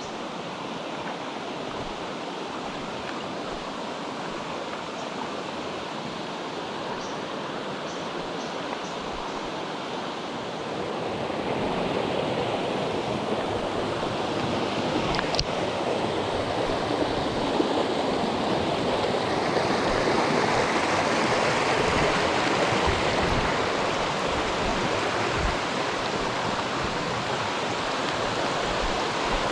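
A mountain stream rushing over rocks: a steady noise of flowing water that grows louder and fuller about a third of the way in.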